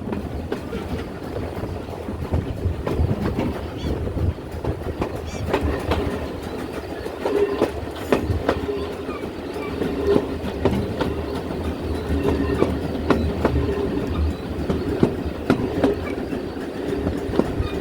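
A train hauled by GWR 4200-class 2-8-0 tank engine No. 4247 climbing a gradient, heard from on board: a steady rumble with wheels clicking irregularly over rail joints and a faint wheel squeal in the middle.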